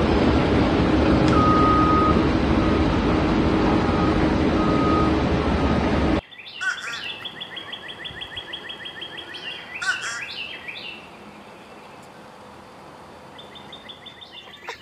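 A loud, steady rushing noise that cuts off abruptly about six seconds in. Bird calls follow: quick runs of short, high, repeated notes, with a louder call near ten seconds.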